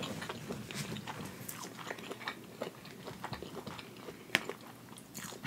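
Close-miked mouth chewing a mouthful of hibachi food, with many small irregular mouth clicks. About four seconds in, a single sharp click comes as a fork digs into the aluminium foil pan.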